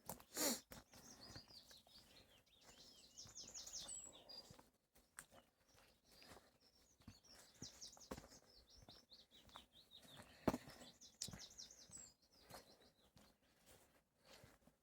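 A songbird singing two long phrases of quick high notes, one a couple of seconds in and one from about halfway. Under it, faint footsteps along a path, with a louder knock at the start and another near the end of the second phrase.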